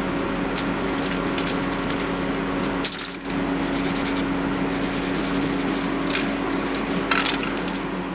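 A power tool's motor running with a steady hum while an abrasive rubs against a part, with scattered light clicks and a brief dip about three seconds in.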